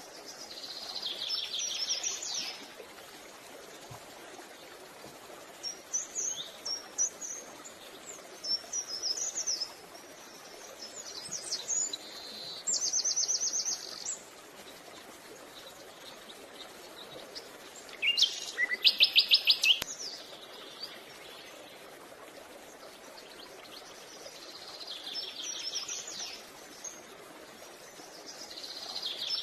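Small songbirds singing: short, high, rapid trills and chirping phrases repeated every few seconds, the loudest about eighteen seconds in.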